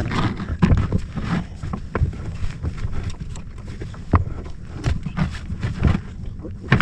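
Irregular knocks and thumps on a small fishing boat, with wind rumbling on the microphone.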